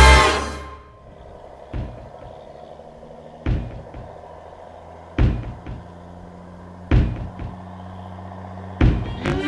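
A 1946 Chevrolet pickup's inline-six engine idling with a steady low hum, broken by five sharp thumps at even spacing, about one every second and a half to two seconds.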